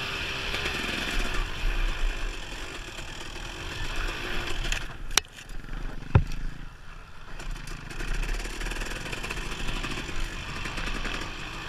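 Dirt bike engine running while it is ridden along a trail, with two sharp knocks about five and six seconds in.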